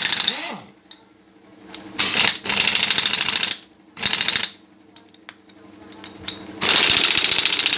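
TOKU pneumatic impact wrench run in short bursts with a fast rattling hammer action: one ending about half a second in, a longer one of about a second and a half around two seconds in, a brief blip at about four seconds, and another starting near the end. The wrench is spinning again after being repaired from not turning.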